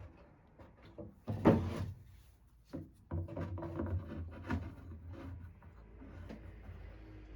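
Old wooden drawer being handled: a loud knock about a second and a half in, a short click, then a rough wood-on-wood scrape as the drawer slides, fading to a softer rub.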